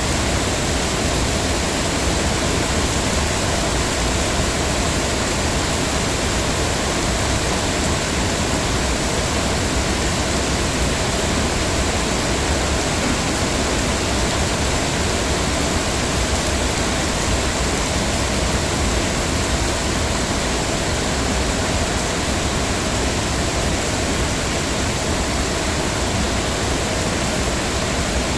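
Heavy rain falling steadily, an even unbroken hiss with no separate drops or events standing out.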